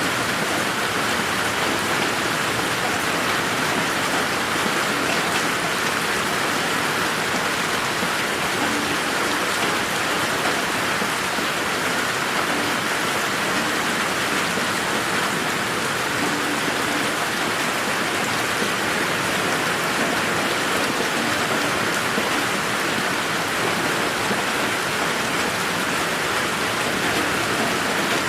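Steady rain falling on a garden, an even hiss of many drops with no thunder.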